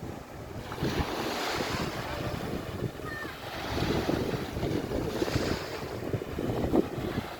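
Wind buffeting the microphone with a rumble that swells and eases, over the wash of sea waves.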